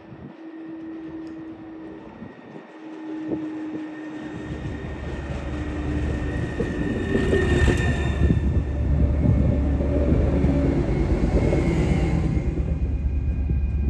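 Bimodal regional train (Stadler FLIRT) pulling into a station and passing close by. It grows louder, with a deep rumble setting in about four seconds in, and the wheel and running noise is loudest from about halfway on.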